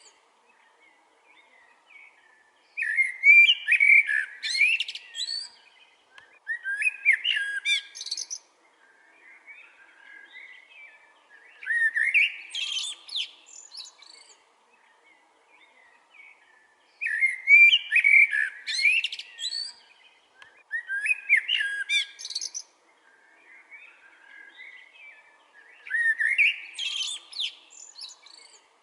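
Songbird singing, with six loud phrases of about two seconds each a few seconds apart and quieter chirps in between.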